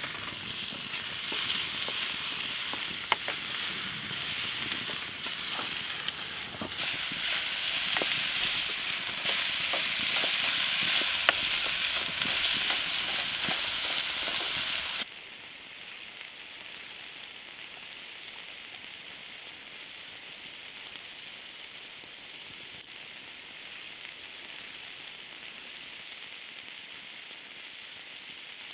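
Cured reindeer meat, red pepper and onion sizzling as they fry in a steel tray on a grill over a campfire, with sharp clicks from a wooden spoon stirring against the tray. About halfway through, the sizzle drops suddenly to a quieter, steady hiss.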